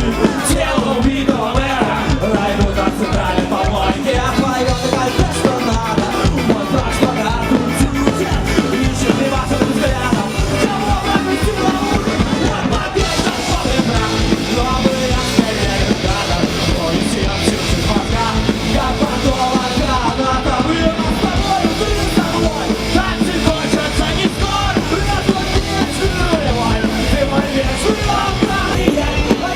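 Live rock band playing a fast, punk-style song at full volume, with a singer over guitars and drums.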